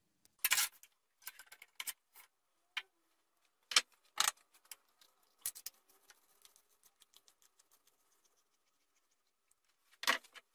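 Scattered sharp knocks and clatters of hard objects being handled, a few loud ones among lighter clicks, then a run of faint, evenly spaced ticks; no steady machine sound.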